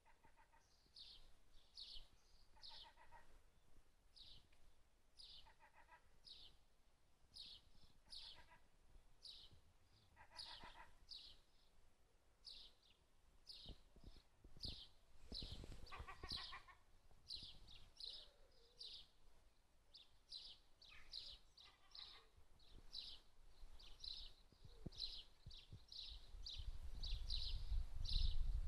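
Small bird chirping over and over, short high chirps about once or twice a second, with a few lower, longer calls mixed in. A low rumble builds near the end.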